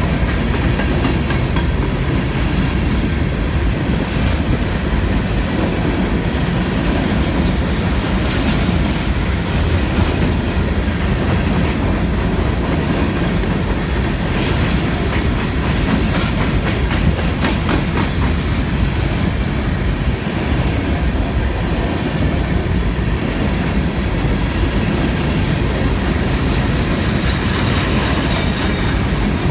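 Empty coal cars of a CSX freight train rolling past with a steady rumble and wheels clacking over the rail joints. A faint high wheel squeal comes in a little past the middle.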